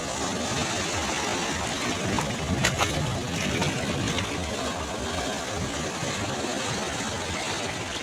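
Sea waves breaking and washing onto a beach: a steady rush of surf with a low rumble.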